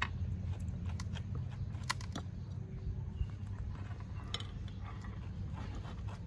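Pet monkeys eating rice: scattered small clicks and ticks, the sharpest about two seconds in, over a steady low rumble.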